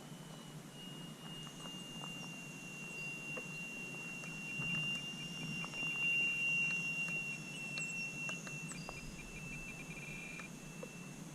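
Small electric RC airplane's brushless outrunner motor and propeller whining in flight, a thin high tone that drifts slowly lower in pitch and grows louder around the middle as the plane passes closer.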